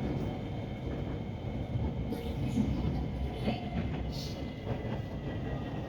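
Interior running noise of an Orange Line electric metro train in motion: a steady low rumble from the cabin.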